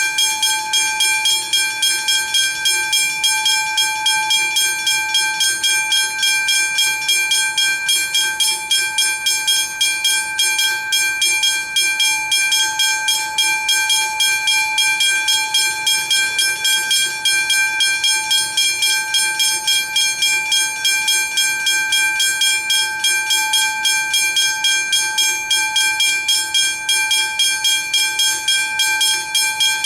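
Railway level crossing warning bells ringing continuously, a fast even train of strikes over a bright ringing tone.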